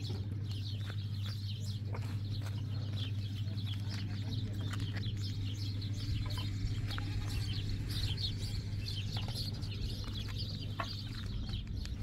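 Birds calling, with many short calls, over a steady low hum and a few sharp taps.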